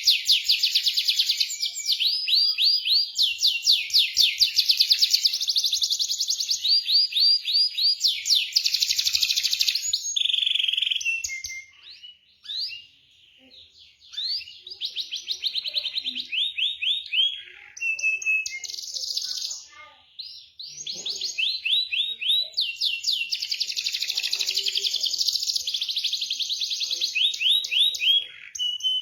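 Domestic canary singing long, rapid rolling trills of high repeated notes, broken by a couple of brief pauses partway through.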